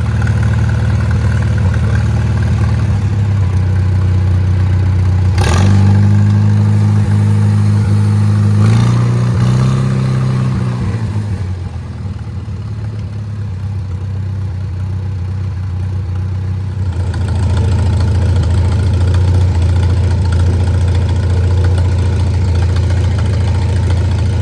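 Farmall Super C tractor's four-cylinder gasoline engine idling steadily on fresh spark plugs. About five seconds in it speeds up with a sharp knock and runs faster for several seconds, then settles back to idle. It runs a lot better than before, which the owner puts down to the new plugs.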